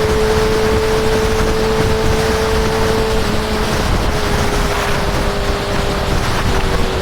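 Honda CB650R's inline-four engine pulling at a steady cruise, its note dipping slightly a little over three seconds in and then easing gently lower, under heavy wind rush on the microphone.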